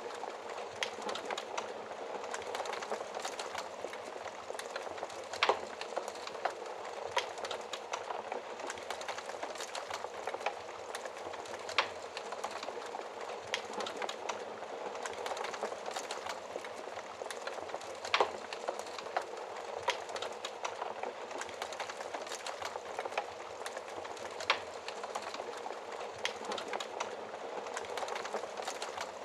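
Wood fire crackling steadily in a fireplace, with a sharp, louder pop about every six seconds.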